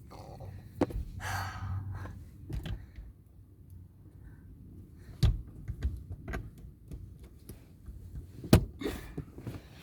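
Scattered knocks, clicks and a few dull thuds inside a car cabin, with soft rustling in between; the loudest thud comes about eight and a half seconds in.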